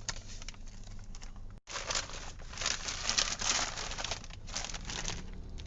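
A wrapped gift being unwrapped by hand: irregular crinkling and rustling of the wrapping, with a brief drop-out about one and a half seconds in.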